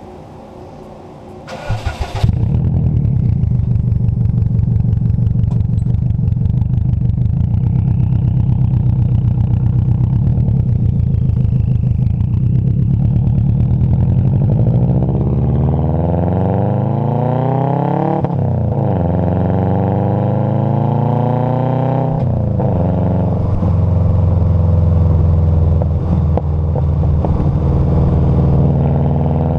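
Vehicle engine starting about two seconds in and settling into a steady idle through the exhaust. Later it is revved up twice with a rising then falling pitch, and then held at a higher, steady speed.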